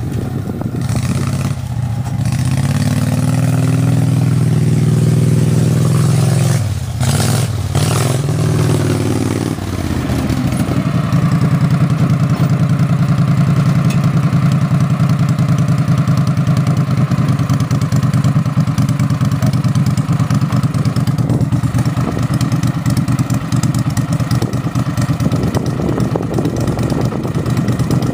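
Max IV amphibious ATV engine running through a custom exhaust header, with a low, sporty exhaust note. It is held at raised revs for the first several seconds, two knocks come as the revs drop, and from about ten seconds in it settles to a steady, pulsing idle.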